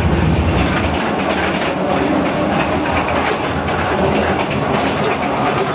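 Passenger train running on the rails, with a steady clatter of wheels and carriage. The deep rumble eases about a second in.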